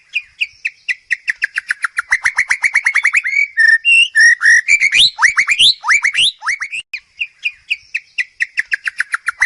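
A songbird singing a repeated phrase: quick downward-sliding whistled notes that speed up into a rapid trill, then a few varied whistles and upward slides. After a brief pause about seven seconds in, the phrase starts over.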